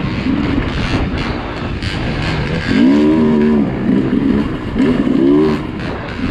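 Dirt bike engine revving up and down in several throttle surges, over a rush of wind and ground noise with scattered knocks.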